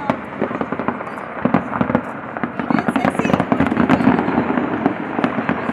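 Aerial fireworks display going off: a dense, irregular run of bangs, pops and crackles from bursting shells, getting busier about halfway through.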